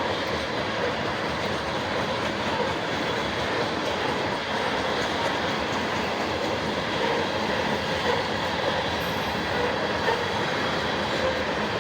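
Norfolk Southern freight train's cars rolling steadily past on the rails.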